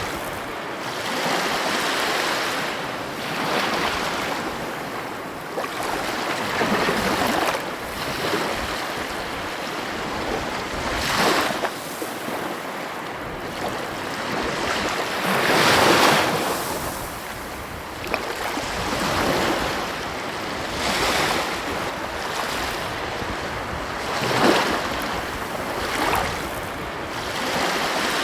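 Ocean surf: waves breaking and washing in, in a steady rush with a swell every few seconds. The biggest surge comes about halfway through.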